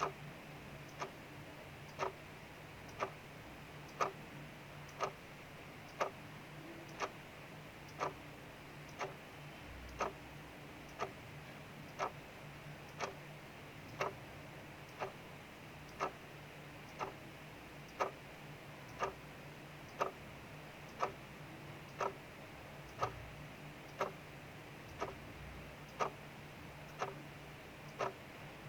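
Mechanical clock ticking steadily once a second, the ticks alternating slightly stronger and weaker, over a steady hiss of rain outside and a faint low hum.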